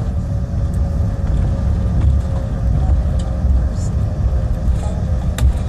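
Steady low rumble inside an airliner cabin as the plane rolls on the ground after landing, with a faint steady whine and a sharp click near the end.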